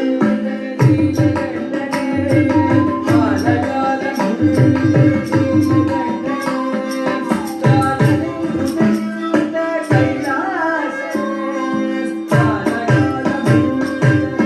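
Carnatic music accompanying a Bharatanatyam keerthanam: frequent mridangam drum strokes over a steady drone, with a gliding melodic line from singing.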